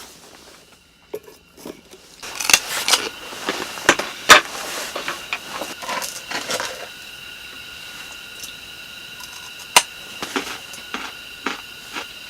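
Wood campfire crackling, with irregular sharp pops starting about two seconds in over a steady thin hiss.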